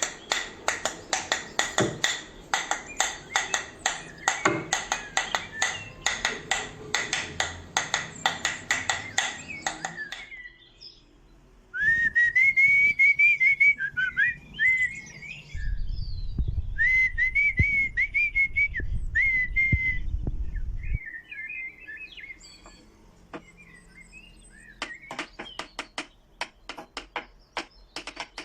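A quick run of sharp clicks or taps. Then a wavering whistled tone, with a low rumble under its second half, and sparse clicks again near the end.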